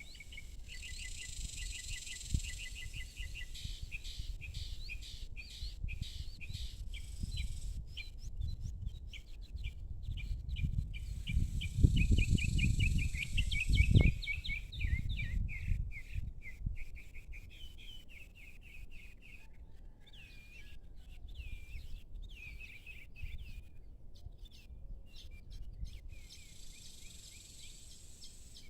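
Small birds chirping in quick runs of repeated notes, with a faint high insect hiss near the start and end. A low rumble swells about halfway through and is the loudest sound.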